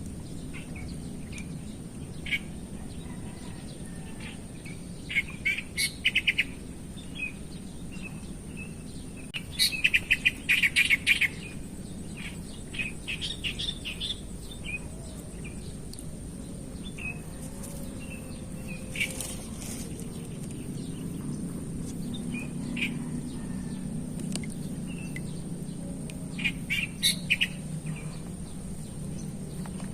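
Wild birds chirping in short bursts of rapid chirps, the loudest burst about ten seconds in, over a steady low rumble of background noise.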